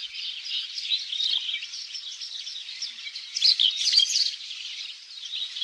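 Birds chirping and twittering rapidly, many calls overlapping, with a louder cluster of chirps about three and a half seconds in.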